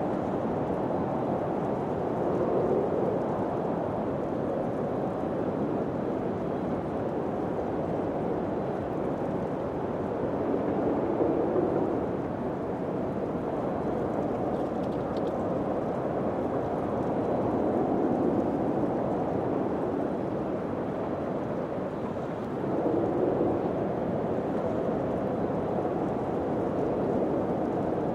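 Wind blowing steadily, a low rushing that swells in gusts several times.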